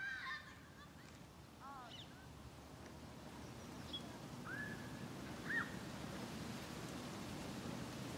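Outdoor ambience with scattered short bird calls over a low, steady background noise: one call at the start, a quick run of three or four calls dropping in pitch about two seconds in, and two more calls around four and a half and five and a half seconds.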